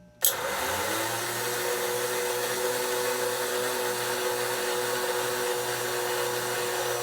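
American Flyer 752 Seaboard coal loader's motor starting with a click and running steadily as it hoists the clamshell bucket up the tower. The hum rises a little in pitch over the first second as the motor comes up to speed, then holds steady.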